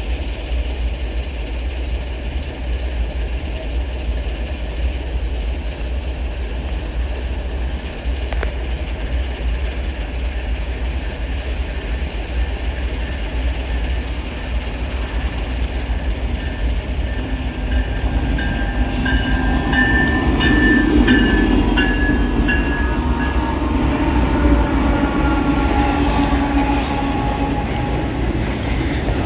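Norfolk Southern diesel freight train approaching and rolling past over a steady low rumble, growing louder about two-thirds of the way through as sustained tones come in.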